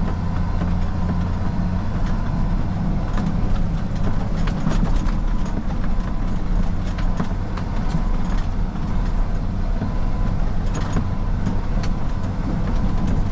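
Rollback tow truck's engine running steadily as it drives a rough gravel back road, with frequent knocks and rattles from the truck bouncing over the ruts.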